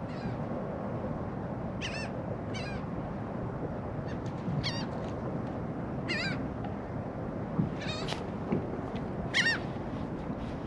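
Seabirds calling over the water: several short, separate cries that bend in pitch, spaced a second or two apart, over a steady background hiss.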